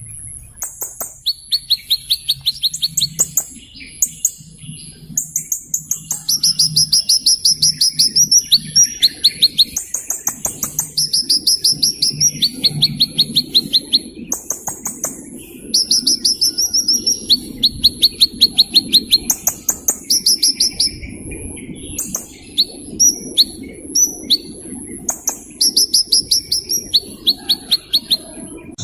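A bird singing a series of rapid high-pitched trills, each a quick run of repeated notes lasting about a second, switching between higher and lower pitches with short gaps between runs. A faint low hum lies underneath.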